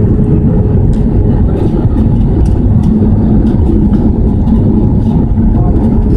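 Airbus A320 cabin noise: steady, loud jet-engine and airflow noise with a steady hum running through it, and faint light rattles scattered over it.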